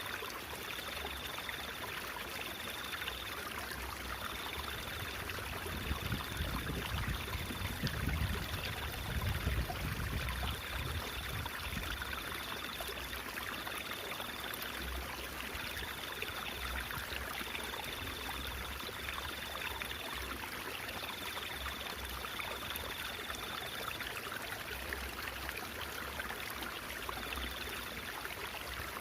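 Stream water babbling and trickling steadily. A faint high tone comes and goes in short stretches, and a low rumble swells for a few seconds starting about six seconds in.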